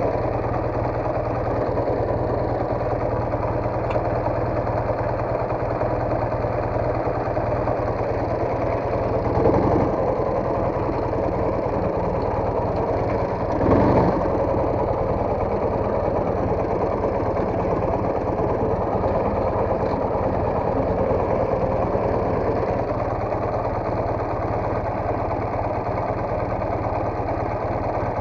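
Soviet motorcycle engine idling steadily, with two brief swells in loudness about nine and fourteen seconds in.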